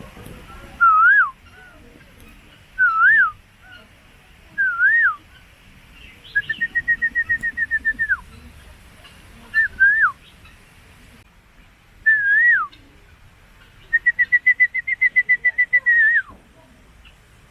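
A series of loud, clear whistles. Short swooping notes that rise, dip and rise again come about every two seconds. Twice, a longer note is held at one pitch for about two seconds, fluttering about eight times a second, then drops away at the end.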